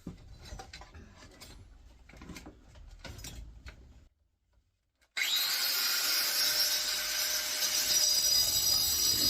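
A few light clicks and knocks of parts being handled, then after a brief gap an angle grinder with a diamond-edged disc spins up with a rising whine and runs steadily, cutting through steel.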